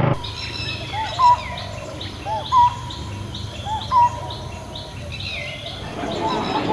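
Several songbirds calling together: many short high chirps over a repeated whistled note that rises and falls, loudest three times about a second and a half apart.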